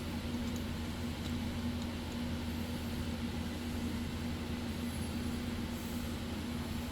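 Steady low mechanical hum, like shop ventilation or an air-conditioning unit, with a steady tone in it, and a few faint light clicks of metal parts being handled.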